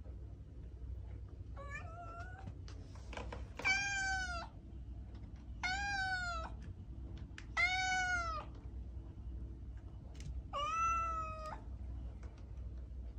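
A cat meowing five times, each call under a second long with a pitch that arches and falls away at the end, over a steady low hum.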